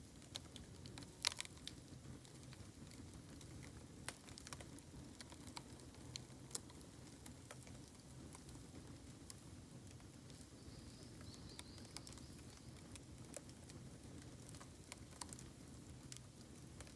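Bamboo burning on an open campfire, faintly crackling with scattered small pops and one sharper crack about a second in.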